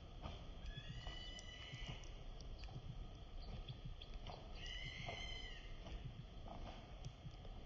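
A bird calling twice, each call a drawn-out, slightly wavering cry lasting about a second: once about a second in and again about halfway through, over a low steady background rumble.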